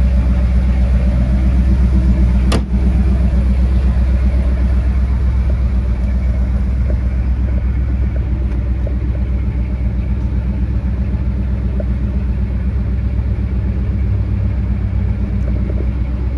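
Ford 460 big-block V8 of a 1978 F-250 pickup idling steadily, heard through its exhaust, which dumps out just ahead of the rear axle. A short click comes about two and a half seconds in.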